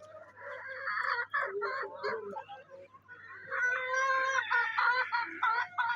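Domestic hens clucking: a run of short calls, then a longer drawn-out call about halfway through.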